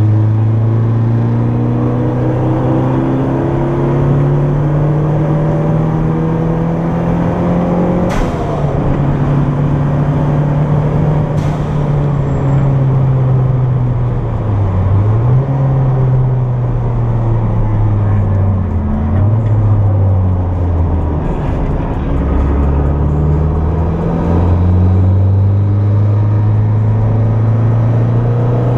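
Turbocharged Toyota MR2's engine heard from inside the cabin, pulling hard with its pitch climbing through the revs. About eight seconds in a gear change clicks and drops the pitch, and later the engine eases off and picks up again several times before rising once more.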